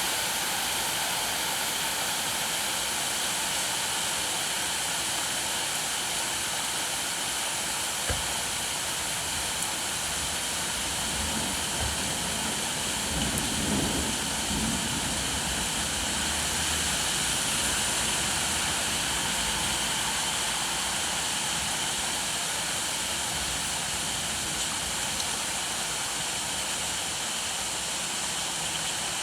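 Steady rainfall, an even hiss. A low rumble swells and fades about halfway through, and there is a single knock a little before it.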